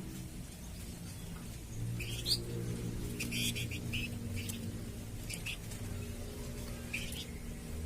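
A cage bird giving short, sharp chirps every second or two over a steady low hum.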